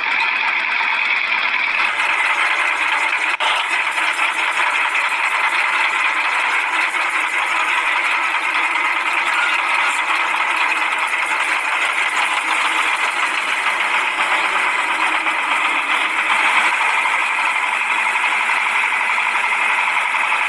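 Small motor of a homemade miniature tractor running steadily, a continuous high buzzing whine with no deep engine rumble.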